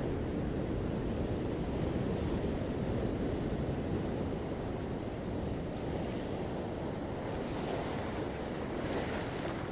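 Ocean surf: a continuous low rumble of breaking waves, with the hiss of a wave washing in rising near the end.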